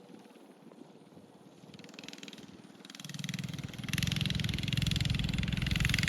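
Mini bike's Predator 212 single-cylinder engine running at speed, faint and distant at first, then growing louder about three to four seconds in as the bike comes nearer.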